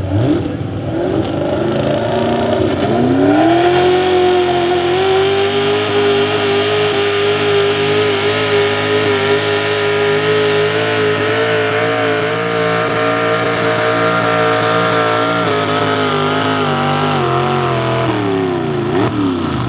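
Small-block V8 of a 4x4 pulling truck under full load: it revs up over the first few seconds, holds at high RPM with a slight waver as it pulls the sled, then drops off sharply near the end as the pull finishes.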